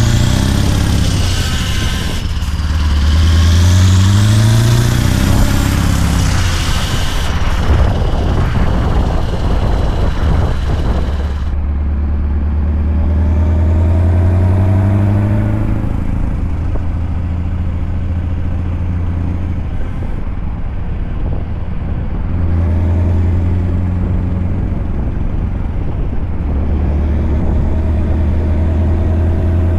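Scania V8 truck engine pulling under load, its pitch rising several times in the first few seconds as it climbs through the gears, then running at a steadier pitch with further rises. A high hiss stops suddenly about eleven seconds in.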